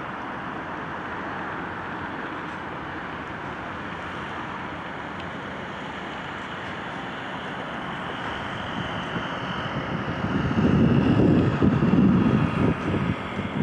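Steady outdoor street noise, with a louder low rumble starting about ten seconds in and lasting a few seconds, like something passing close by.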